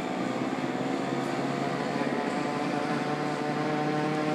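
Model airplane engine running steadily at the flying field, a constant pitched drone.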